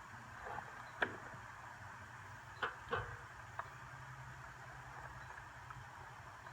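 A few scattered knocks and clicks, the loudest about a second in, over a faint low hum.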